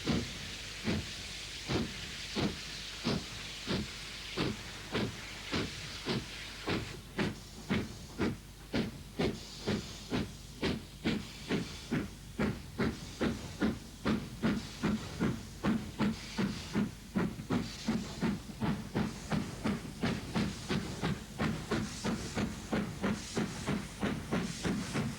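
Exhaust beats of a GCR Improved Director class 4-4-0 steam locomotive, each a sharp chuff over a steady hiss of steam. The beats come about once a second at first and quicken steadily to well over two a second: the engine getting away and gathering speed.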